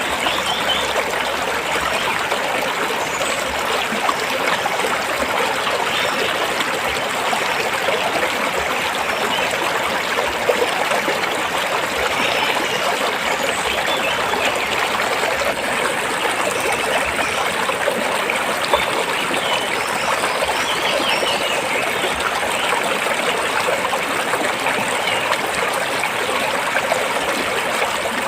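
A stream of water flowing and splashing steadily over and between rocks, a constant rushing babble.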